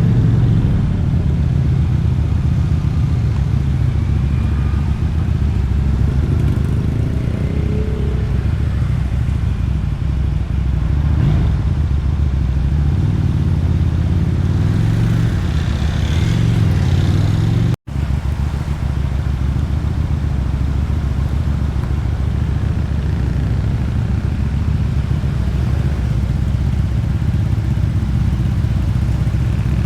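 Motorcycle engine and exhaust running steadily while riding, with the engine note rising and falling with throttle. The sound cuts out for an instant a little past halfway.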